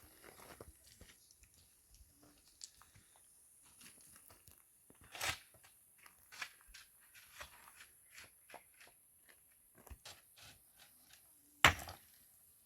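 Irregular small crunching, tearing and clicking sounds from handling things close by, with a sharp knock near the end.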